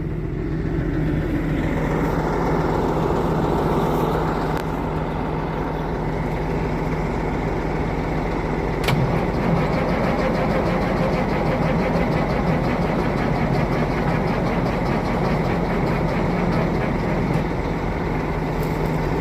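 The old International's engine is cranked by its starter for a long stretch without catching: it won't start despite new batteries. A steady low engine hum runs underneath.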